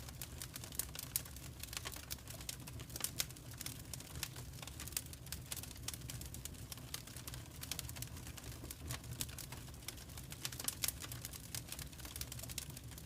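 Wood fire crackling: quick irregular pops and snaps, a few sharper than the rest, over a low steady rumble.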